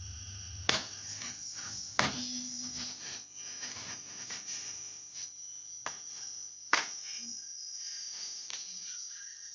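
Crickets chirping steadily in a high, continuous drone, broken three times by sharp clicks or snaps.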